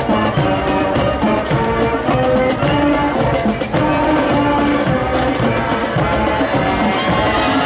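High school marching band playing: sustained brass chords over a drumline keeping a steady beat.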